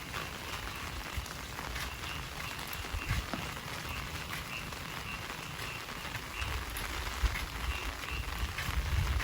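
Heavy rain falling steadily, with many small drop impacts pattering on surfaces. A faint short call repeats about twice a second behind it.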